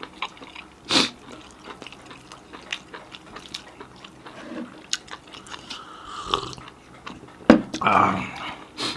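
Close-up eating sounds: chewing with wet mouth clicks and smacks throughout, and a few louder bursts about a second in and near the end.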